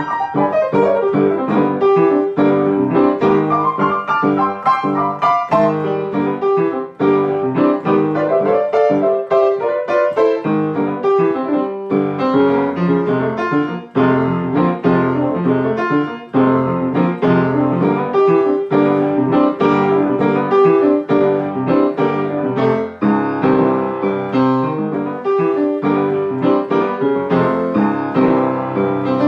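Solo piano playing an instrumental break between sung choruses: a busy stream of chords and melody notes, with no voice.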